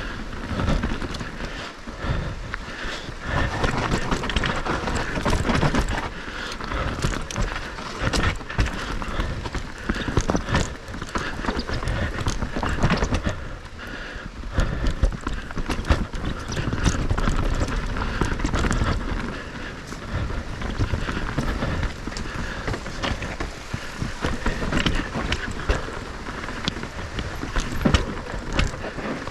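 Moustache Game e-mountain bike ridden fast over a rough trail: tyres crunching over dirt, roots and rocks, with a constant clatter of knocks and rattles from the bike, and wind rumbling on the microphone.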